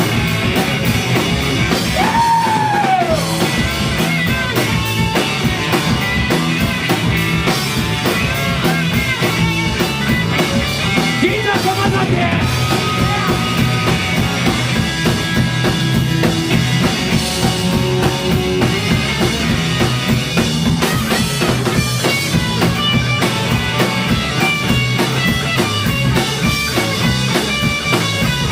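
Live rock band playing loud: electric guitars, bass and drum kit in a driving garage-punk style, with a few sliding guitar notes or shouts.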